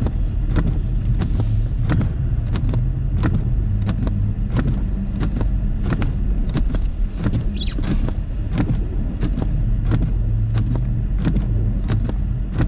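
Car running slowly through deep snow, heard inside the cabin: a steady low engine and road rumble with frequent sharp clicks and knocks, about two or three a second.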